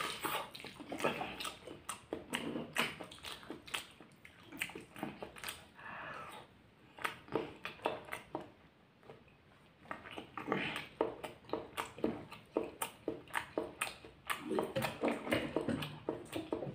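Close-miked eating sounds from chewing raw chilies: wet chewing and lip smacks full of sharp mouth clicks. Several times these are broken by short huffing breaths through pursed lips against the chili heat.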